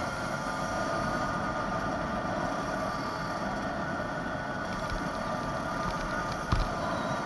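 66cc two-stroke motorized bicycle engine running steadily under way, with wind rumble on the microphone. There is one short knock about six and a half seconds in.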